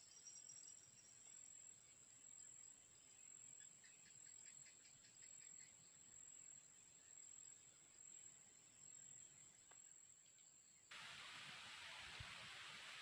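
Faint insect drone, a steady high-pitched tone like crickets, with a brief run of rapid chirps about four to six seconds in. Near the end the sound switches abruptly to a louder steady hiss.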